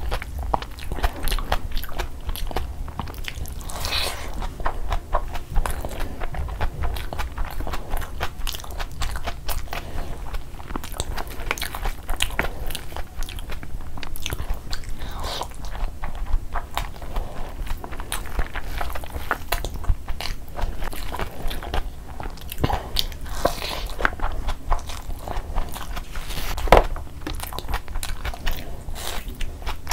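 Close-miked eating sounds: a person chewing mouthfuls of spiced rice with mutton and boiled egg, eaten by hand. It comes as a steady run of rapid small wet mouth clicks, with one sharper click near the end.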